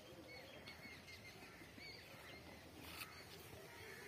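Faint chirping of small birds: short high chirps several times a second over a quiet rural background, with a single brief click about three seconds in.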